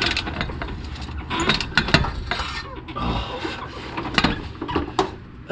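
Metal hand tools clinking and knocking against each other and against bolts, a run of irregular sharp clicks with short ringing.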